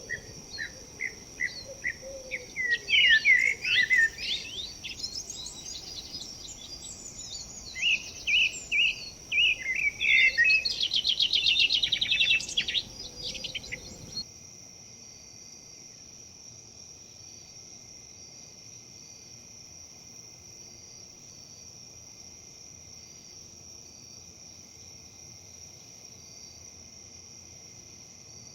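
Small birds singing in quick chirps and trills over a steady high-pitched drone of crickets or similar insects and a low rustling hiss. About halfway through the birds and the rustle cut off abruptly, leaving only the even insect chirring.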